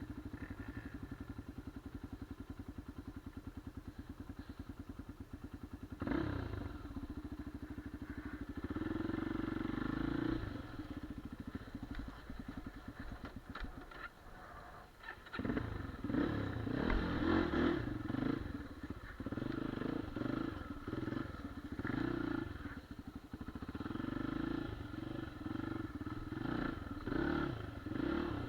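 Single-cylinder four-stroke engine of a Geon Dakar 250 Twincam enduro motorcycle. It runs with a steady, even pulse at first, then is revved hard in repeated uneven surges, dipping briefly about halfway, as the bike is worked up a steep, bumpy hill.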